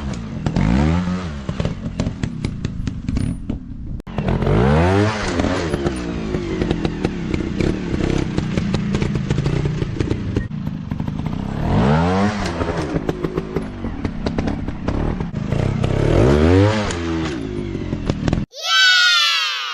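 Dirt bike engine revving up and down again and again, with sharp clicks and clatter throughout. It cuts off suddenly near the end, followed by a short falling tone.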